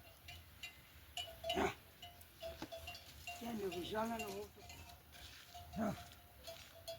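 Small livestock bells clinking again and again on a grazing flock, with bleats about one and a half seconds in, a longer quavering bleat around four seconds in, and another near six seconds.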